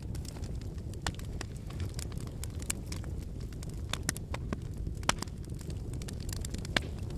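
Wood fire burning: a steady low rumble of flames with irregular sharp crackles and pops from the burning firewood, two louder pops about five seconds in and near the end.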